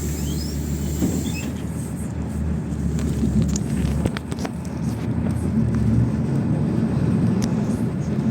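PAZ 32054 bus engine running under way, heard from inside the passenger cabin, with rattles and clicks from the bodywork; the engine note changes about four seconds in.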